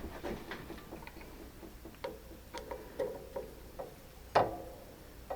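Irregular light clicks and taps of hand work with tools and parts, some with a short metallic ring, and one louder knock near the end.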